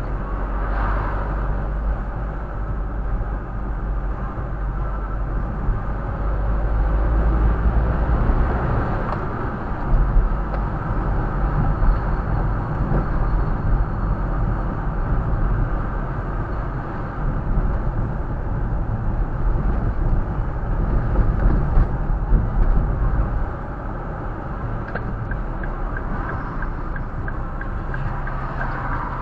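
A car running steadily: a continuous deep rumble with road noise, easing a little near the end.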